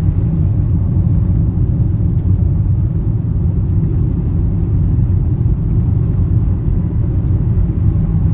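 Steady low rumble of a car driving, the engine and tyre noise heard from inside the cabin.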